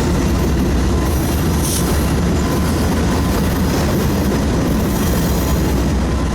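Freight train rolling past, a steady heavy rumble of the train on the rails with no break.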